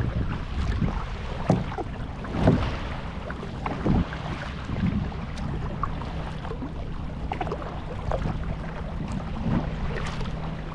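Kayak paddling: water splashing off the paddle with scattered short knocks, with wind on the microphone. A faint steady low hum comes in about halfway through.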